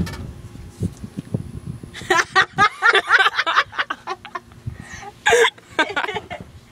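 Giggling and laughter in quick, short, repeated bursts, starting about two seconds in, after a single knock at the very start and some rustling of movement.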